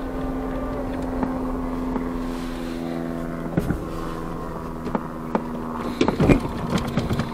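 Ford Fiesta's engine running at steady revs, heard from inside the cabin as the car is driven out of soft beach sand; the engine note steps lower about halfway through. A few knocks and some clatter come near the end.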